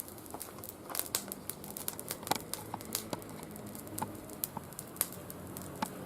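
Oak twigs burning in a mesh fire pit, crackling with irregular sharp snaps and pops. The oak was cut only months earlier and left in shade, so it is not fully dry.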